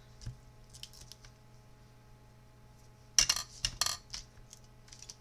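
Two short, sharp crackling bursts about three and nearly four seconds in, typical of foam adhesive dimensionals being peeled off their plastic backing sheet, with a faint click near the start.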